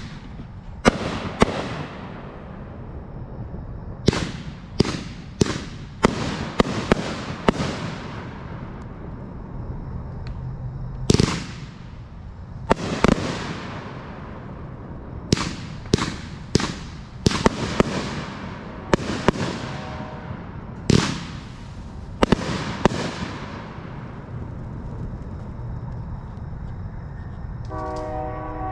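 Miracle Fireworks' Zombie Rising, a 20-shot 500-gram consumer firework cake, firing its shots. There are about twenty sharp bangs in irregular clusters, each with a fading crackling tail, and the shots stop about 23 seconds in.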